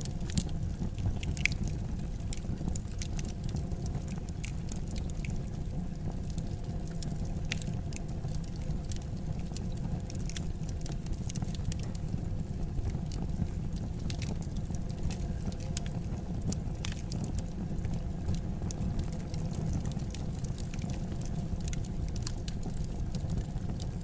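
Fire burning in a fireplace, crackling: irregular sharp pops over a steady low rumble.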